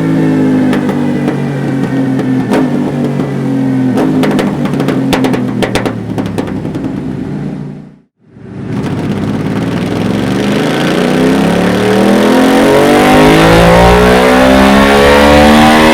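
Aprilia Tuareg 660's parallel-twin engine through a Dominator aftermarket exhaust, running under load with a string of sharp crackles about halfway through. The sound cuts out briefly, then the engine climbs steadily in revs to the end.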